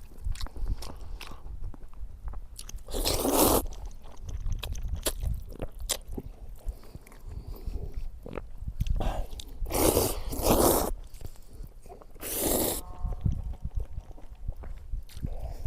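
A person chewing and biting food close to the microphone: many small wet clicks, with several short, loud rushes of noise in between, over a steady low rumble.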